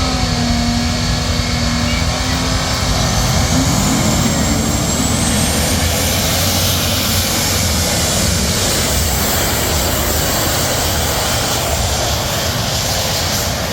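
Tractor engine running at full throttle under the heavy load of a pulling sled in a tractor pull: a loud, steady roar with a faint rising whine in the middle.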